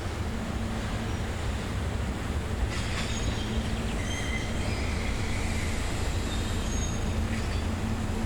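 Tobu 350 series electric train running on the rails: a steady low rumble, with a sharp knock about three seconds in and several brief high-pitched wheel squeals through the middle.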